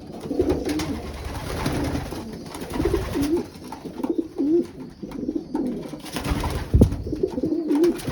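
Racing pigeons cooing in a loft, several overlapping wavering coos repeating again and again. A single sharp knock about two-thirds of the way through is the loudest moment.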